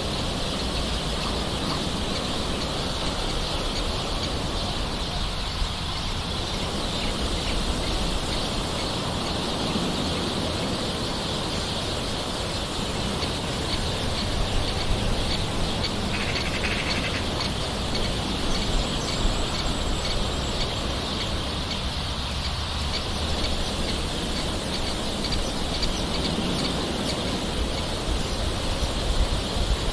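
Steady light rain with birds calling throughout.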